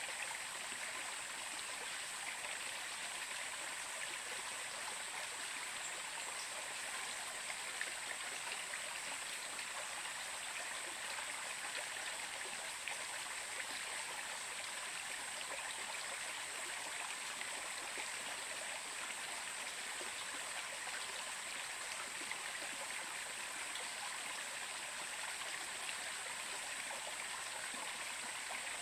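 Stream water flowing steadily, an even rushing and splashing with a constant high hiss above it.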